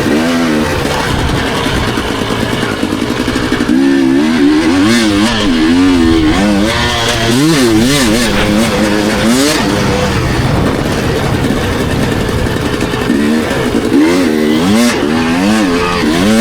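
Dirt bike engine being ridden on a motocross track, its pitch swinging up and down again and again as the throttle is opened and shut and gears change. It holds steadier for a few seconds in the middle.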